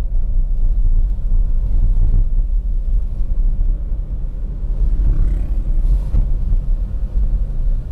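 Toyota Agya's 1.0-litre three-cylinder engine pulling uphill in second gear under load, with the air conditioning running. Heard from inside the cabin, it is a steady low rumble mixed with road noise.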